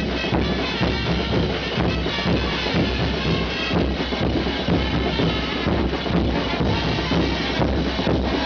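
Live festival dance-band music, with drums beating a steady, driving rhythm under the band.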